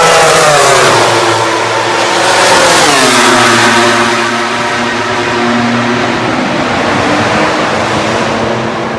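MotoGP racing motorcycles going past at high revs, the engine note falling sharply twice as bikes go by, then running on at a lower pitch.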